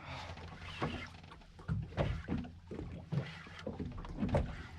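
Steady low hum of the boat with irregular knocks and thumps on deck as a hooked amberjack is fought on rod and reel.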